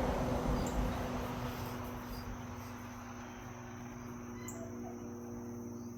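Insects, likely crickets, chirring steadily in a high, even band. A louder rushing noise in the first couple of seconds fades away.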